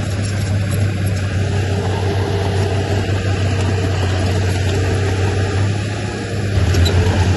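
Heavy earthmoving machine's diesel engine running steadily with a deep drone, growing louder about six and a half seconds in as it works harder or comes closer.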